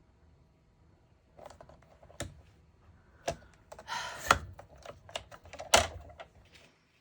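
Cardstock being handled and cut to size: scattered clicks and taps, with a short rasping cut about four seconds in.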